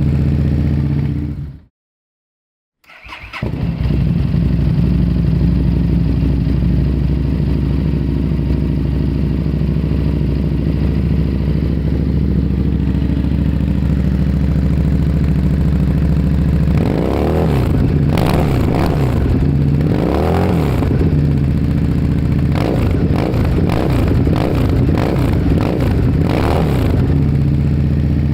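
One engine recording with a loud exhaust fades out just after the start. After about a second of silence, another engine starts and idles steadily, then is revved in a series of rising and falling blips from a little past halfway and again near the end.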